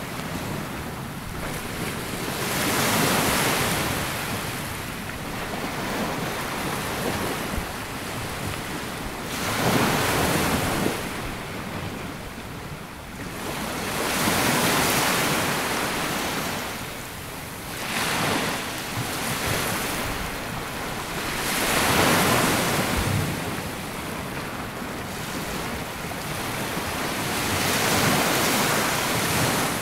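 Small sea waves breaking and washing up a sandy beach, each one swelling and falling back every few seconds, with some wind on the microphone.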